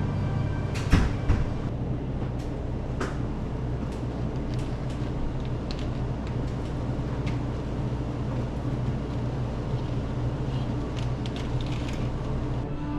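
A couple of sharp knocks about a second in, another a little later and a scattering of light clicks from handling the sheet-metal access panel and filter of an HVAC unit, over a steady low hum of running equipment.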